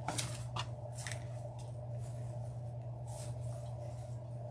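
Ribbons and mesh on a wreath being handled and pulled out, giving a few short crinkling rustles over a steady low background hum.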